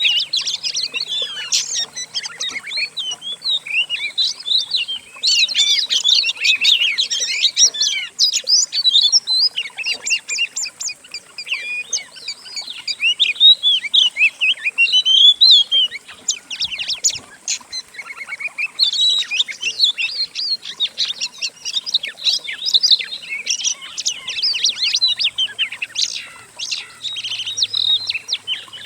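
Songs of several songbirds mixed together into one dense, continuous run of fast twittering, sharp chips and whistled phrases, with a few brief lulls. It is a compiled training recording for Oriental magpie-robins to copy.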